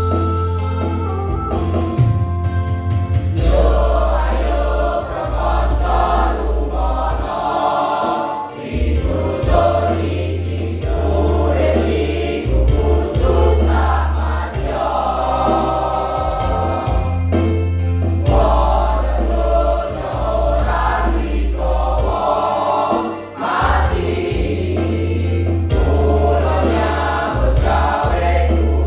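A choir singing a song in rehearsal, the massed voices moving through changing chords over held low notes from a keyboard accompaniment.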